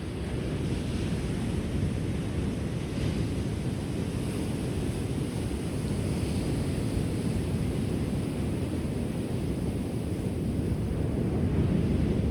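Ocean waves rolling onto a shore: a steady low rumble of surf with hissing washes of breaking water rising a few times, swelling near the end. There is some wind noise on the microphone.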